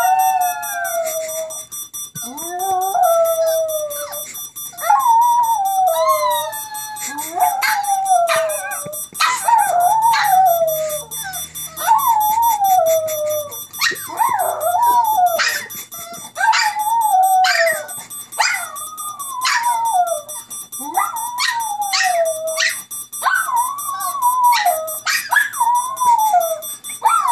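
Two dogs howling in a long run of separate rising-and-falling howls, some overlapping, with sharp yelping starts. A faint steady high tone runs underneath.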